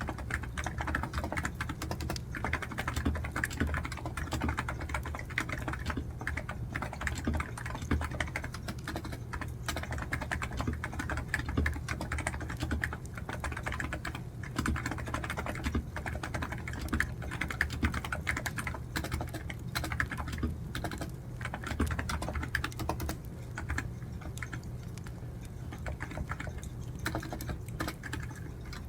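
Steady, fast typing on a computer keyboard, a dense run of key clicks that eases slightly near the end.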